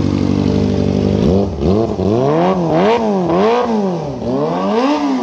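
Kawasaki ZX250 engine running through an aftermarket racing exhaust. It holds a steady, fairly high idle, then about a second in it is revved up and down in quick repeated blips, five or so rises and falls in pitch.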